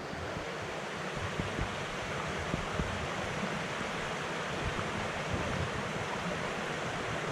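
Steady rushing of a mountain stream, an even hiss of flowing water, with a few soft low bumps in the first few seconds.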